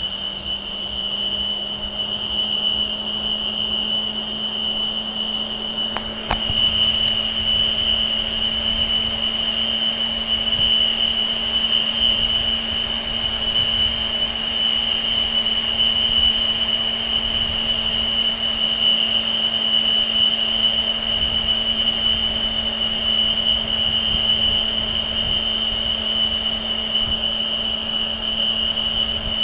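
Building fire alarm sounding a continuous high-pitched tone, with a steady low hum underneath. A single click comes about six seconds in.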